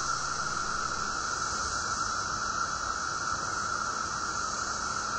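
Chorus of many 17-year periodical cicadas singing together: a steady, unbroken high drone with a hissing edge, the males calling for mates.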